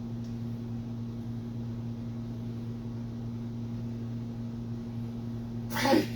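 A steady low hum over a faint hiss, with one short, loud sound near the end.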